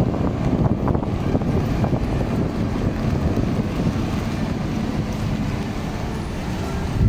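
Wind buffeting the microphone: a steady low rumbling noise that eases slightly near the end.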